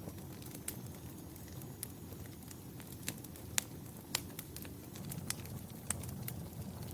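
Fire crackling in a fireplace: irregular sharp pops and snaps over a steady low rush of the flames, the loudest pops a little past halfway.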